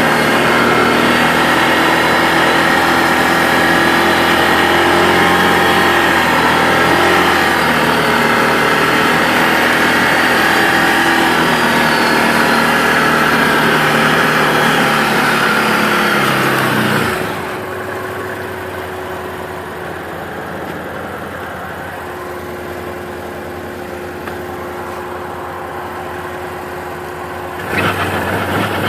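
1000 cc V-twin ATV engine, the quad running on tracks in snow, pulling steadily, then winding down about two-thirds of the way through to a quieter steady running. It picks up again near the end.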